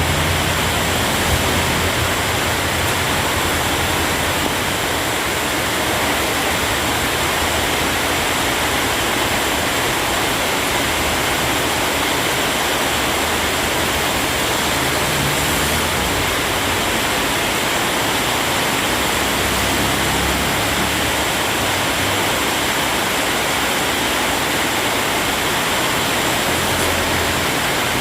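Heavy rain pouring steadily as a loud, even hiss, with a low rumble that swells now and then underneath.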